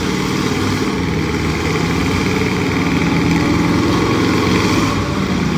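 A pulling truck's engine running hard and steady, its pitch climbing gently through the middle and easing slightly near the end.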